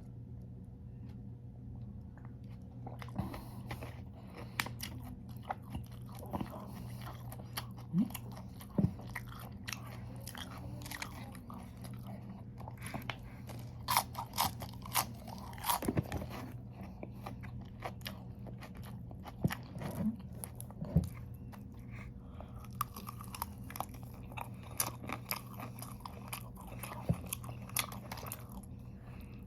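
Close-miked crunching and chewing of raw vegetables, with many sharp crisp bites and crackles over a steady low hum.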